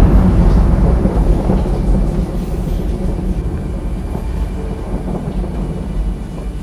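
A deep, low rumble, loud at first and slowly fading away.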